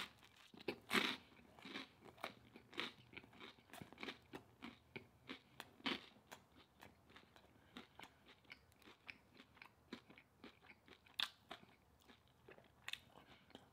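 A person chewing food close to the microphone: a run of small irregular crunches and mouth clicks, two or three a second, with a few louder bites.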